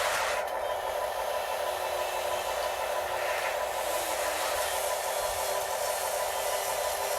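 Small electric motors of RC construction models (excavators, dump trucks, loader) whirring steadily as they work, with a faint whine that shifts a little in pitch.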